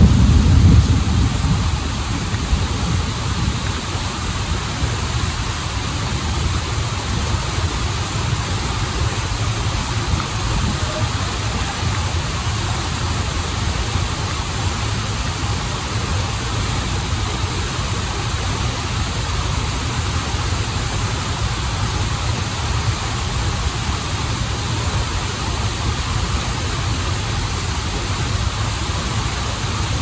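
Waterfall and stream water rushing steadily, a deep rumble under a bright hiss, a little louder for about the first second.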